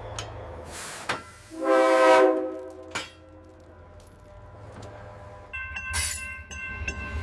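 Train horn blowing one blast of about a second, after a brief hiss. Later a steady high-pitched ringing tone comes in over a low rumble that grows louder near the end.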